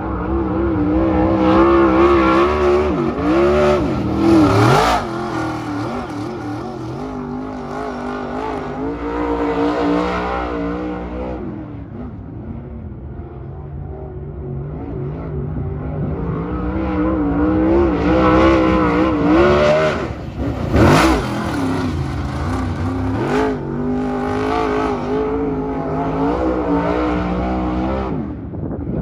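Dirt super late model race car's V8 engine at speed on the track. It winds up in pitch and then drops sharply twice, about sixteen seconds apart, as the driver gets on and off the throttle around the laps.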